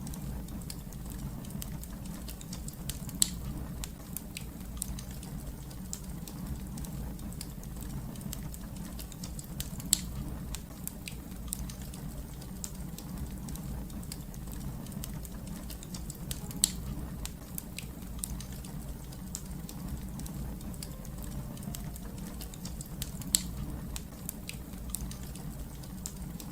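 Wood fire crackling: a steady low rumble of burning with a constant scatter of small crackles, and four louder sharp pops spaced evenly about every seven seconds.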